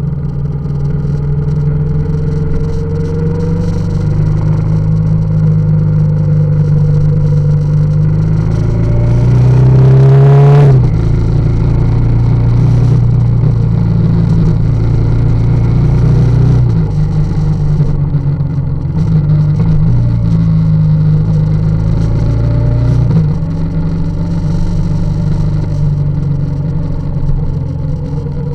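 Motorcycle engine running while riding, its revs climbing for a couple of seconds and then dropping abruptly about ten seconds in, and otherwise rising and falling gently with the throttle.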